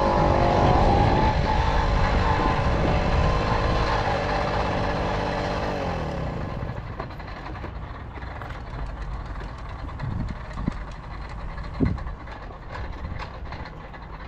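Tomos Silver Bullet moped's two-stroke engine running. About six seconds in its pitch sinks and the sound drops off as the engine eases down to a quieter, lower running. Two short thumps come near the end.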